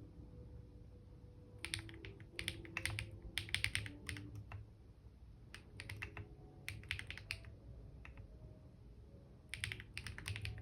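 Typing on a computer keyboard: short runs of rapid keystroke clicks with pauses between them, three main bursts.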